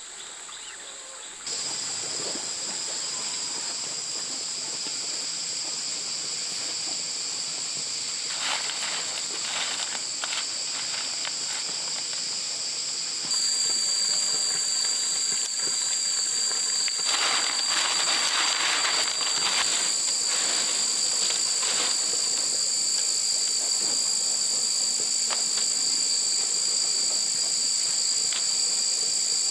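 Insects droning steadily at a high pitch, growing abruptly louder twice, with a few short bursts of rustling noise.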